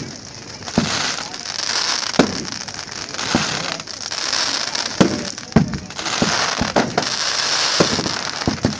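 Fireworks display: shells bursting in sharp bangs roughly every second or two, about seven in all, over a steady rushing, crackling noise between the bangs.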